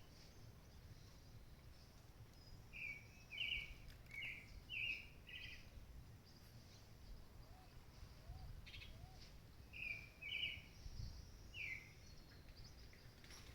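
Faint birdsong: a small bird gives a quick run of five short chirps, pauses, then gives three more. A fainter steady high hiss lies underneath.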